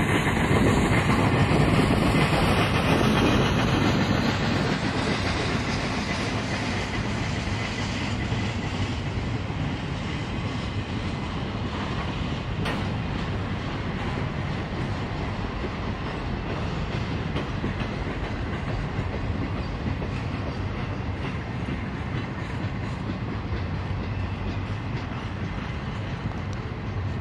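Freight train of intermodal well cars rolling past, its wheels clacking over the rails in a steady clatter. It is loudest in the first few seconds, with one sharp clank about halfway through.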